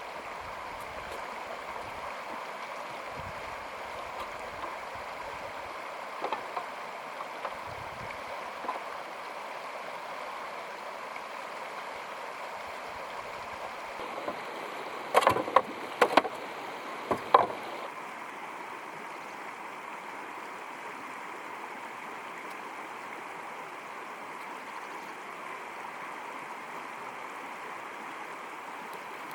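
Steady rush of running water, like a stream. About halfway through, a handful of sharp knocks stand out over it.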